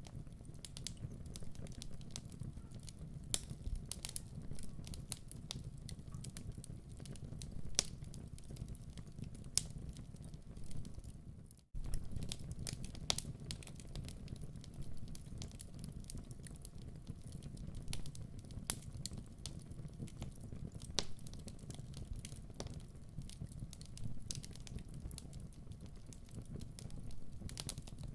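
Wood fire in a fireplace crackling: a steady low rumble with irregular sharp pops and snaps. The sound cuts out for an instant about twelve seconds in, then carries on.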